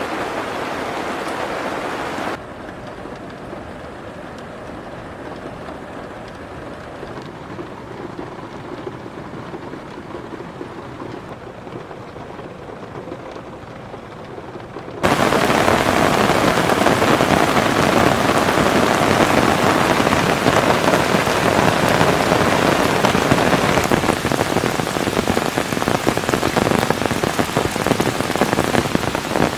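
Heavy rain pouring down, a dense steady patter on a surface. About two seconds in it drops abruptly to a quieter, duller downpour, and about halfway through it jumps back up to loud, full rain.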